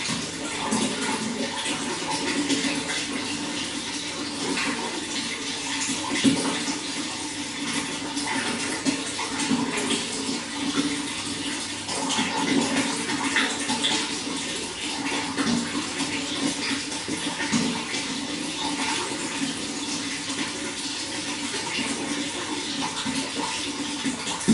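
Running water flowing steadily, with many small irregular splashes throughout.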